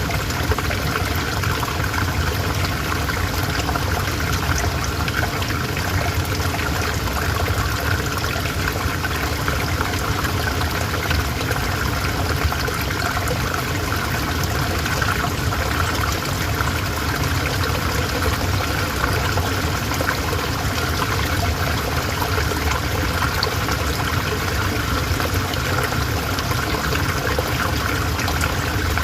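A calm river flowing, its water noise steady and unbroken.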